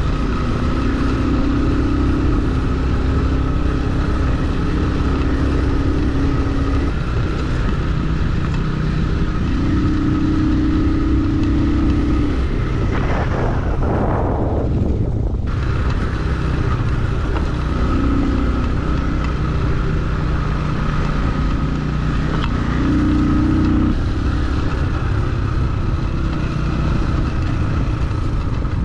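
Motorcycle engine running steadily while riding a dirt road, with road and wind rumble underneath. About halfway through, the note briefly sweeps downward and the hiss drops out before the steady running returns.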